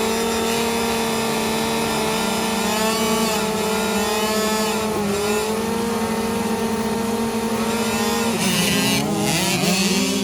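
Dirt bike engine running hard at high revs, holding a steady pitch for about eight seconds, then dropping and climbing again near the end.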